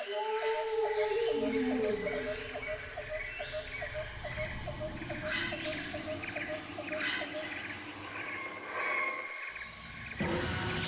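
Tropical jungle ambience: birds chirping and calling over a steady high insect drone, with a rhythmic clicking animal call about three times a second that stops around two-thirds of the way through. Near the end the mix turns fuller and louder.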